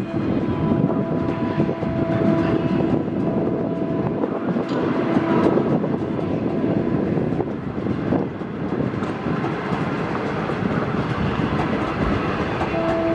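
Passenger train of 25G coaches rolling past on the rails: a continuous rumble with the clickety-clack of wheels over rail joints. A steady tone sounds for a few seconds near the start and again near the end.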